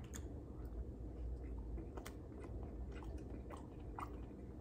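Faint chewing with the mouth closed, with a few soft wet clicks and smacks now and then.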